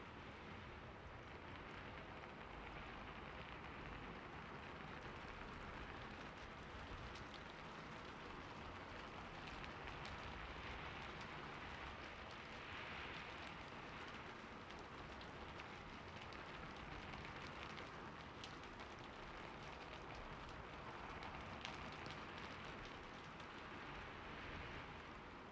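Steady rain falling on a roof, an even patter with scattered faint drop ticks, swelling and easing slightly every few seconds.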